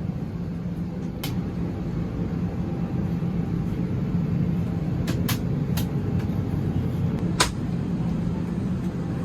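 Steady low hum of an Airbus A321 cabin sitting at the gate, its ventilation running. A few sharp clicks or knocks sound through it, two close together about five seconds in.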